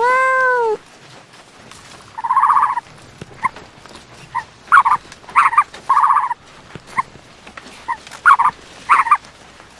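A kitten meows once at the start, a short mew that rises and then falls. From about two seconds in comes a run of about a dozen short, high, buzzy calls from another animal, two of them drawn out and the rest quick.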